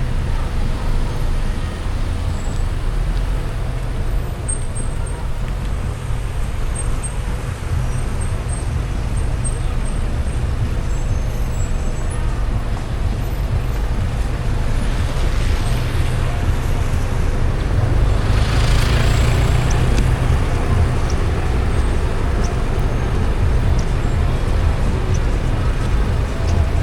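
Road and traffic noise from a car driving on a wet road: a steady low rumble. A hiss, likely passing traffic or tyre spray, swells about 15 seconds in and again around 19 seconds.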